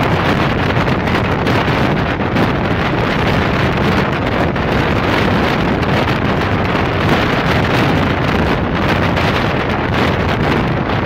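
Steady rush of wind buffeting the microphone held out from a moving passenger train, with the train's running noise underneath.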